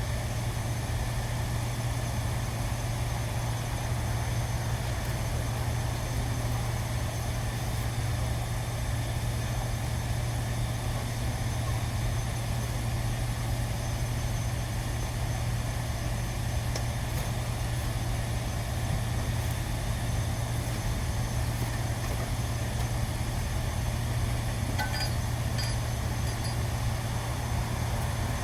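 A machine running with a steady low hum that does not change, with a few faint clicks near the end.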